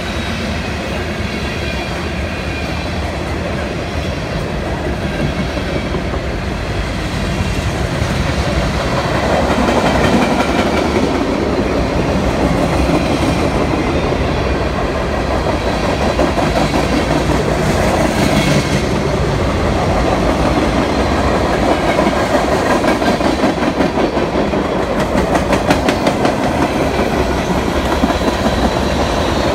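Freight cars of a Union Pacific train rolling past, steel wheels running on the rails. The steady noise grows louder about eight to ten seconds in and then holds.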